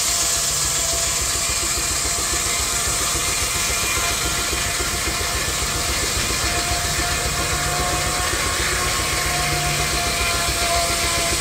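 Steam traction engine running steadily under load while belt-driving a sawmill, with a fast, even exhaust beat and a constant hiss of steam.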